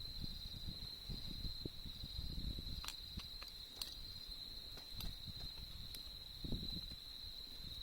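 Autumn insects keep up a steady, unbroken high trill over a crackling campfire, with a few sharp pops of burning wood around the middle.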